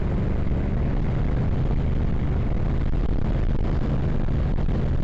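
Custom motorcycle engine running steadily at highway speed, with wind and road noise rushing over the microphone.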